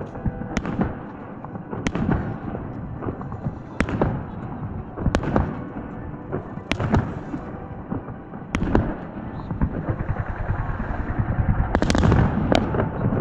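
Aerial fireworks shells bursting, about nine sharp bangs roughly every one and a half to two seconds, each trailing off in a low rumble. Near the end the bangs come close together and are the loudest.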